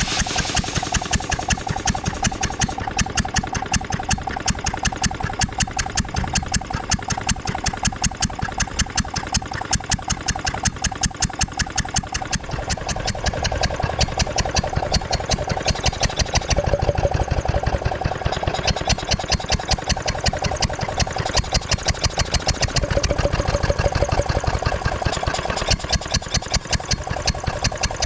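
Vintage Ruston & Hornsby 2PS petrol-engined air compressor running steadily, with an even fast beat of about six strokes a second. Its tone shifts about twelve seconds in and again near sixteen and twenty-six seconds.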